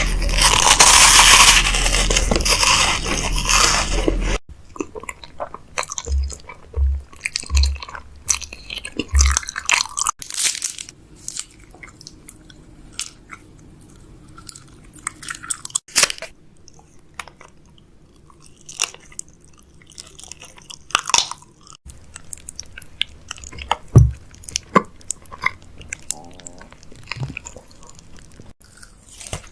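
Crinkling and crunching of snack packaging and snacks being handled, loud and rushing for the first few seconds, then a string of lighter clicks, taps and crackles.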